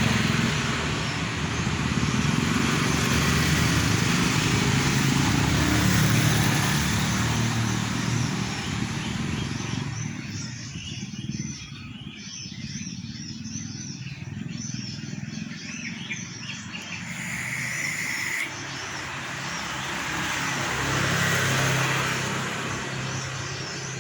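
Motor vehicles passing on a nearby road, with a low rumble for the first several seconds. This fades to a quieter stretch of small birds chirping rapidly. Another vehicle rumbles past near the end.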